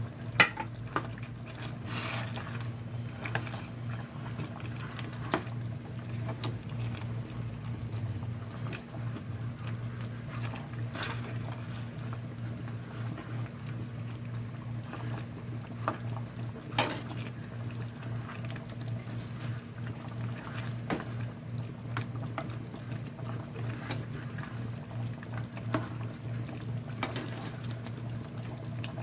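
Chicken curry in coconut-free cream sauce simmering at a boil in the pot, a steady liquid bubbling over a low hum, with scattered clicks of a spoon knocking against the pot as the just-added curry powder is stirred in.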